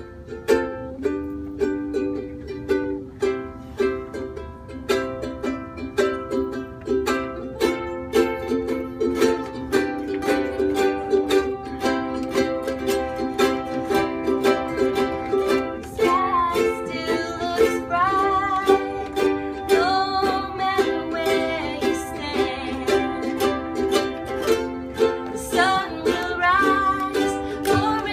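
Several ukuleles strummed together in a steady rhythm, playing a gentle song; singing comes in a little over halfway through.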